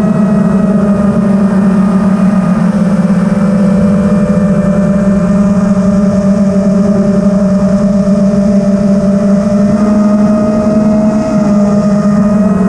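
FPV quadcopter's electric motors and propellers running at steady cruising throttle: a continuous whine whose pitch drifts slightly as the throttle changes.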